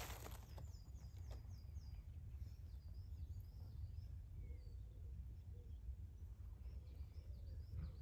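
Small birds chirping faintly, with a quick run of about five high descending notes near the start and scattered twitters later, over a low steady rumble.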